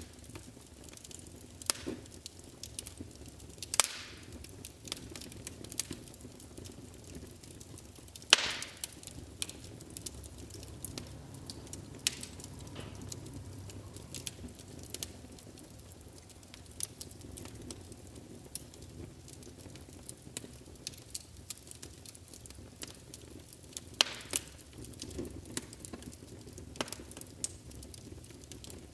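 Wood fire burning in a fireplace: a soft steady rumble of flames under frequent crackles and pops, with sharper, louder snaps about 4 and 8 seconds in and again near 24 seconds.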